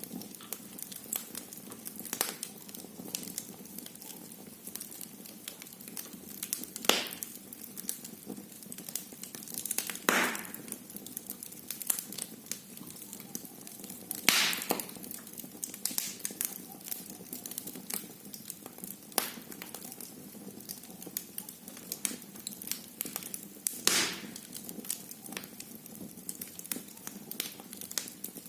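Wood fire crackling in a fireplace: a steady run of small crackles, with four louder pops spread through.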